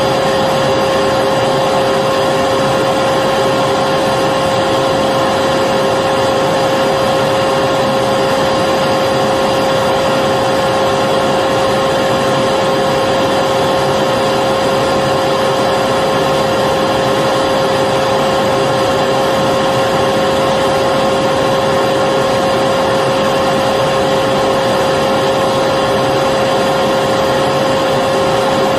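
Electric vacuum cleaner running steadily: a constant whooshing motor noise with a steady whine in it.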